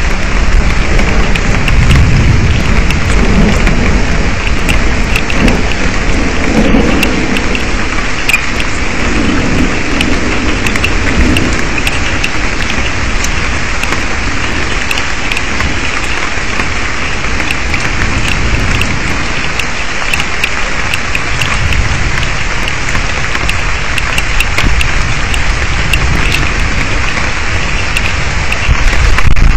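Heavy rain falling steadily, with close raindrops tapping. A long, low rumble of thunder rolls through the first ten seconds or so.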